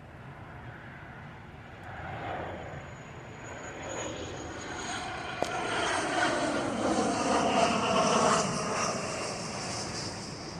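Airplane passing overhead: its engine noise builds steadily, peaks about eight seconds in with a thin high whine above the rush, then begins to fade.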